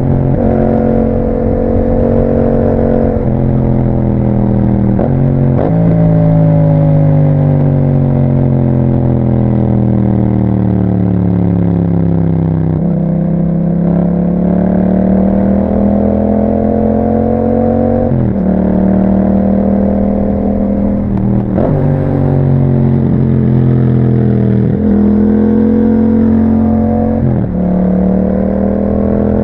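Yamaha MT-07's parallel-twin engine through an Akrapovic exhaust with a dB killer, riding under way. Its pitch climbs through the gears with several quick gear changes, each a sudden drop in pitch. About a third in, a long slow fall in pitch over several seconds eases off, then it climbs again.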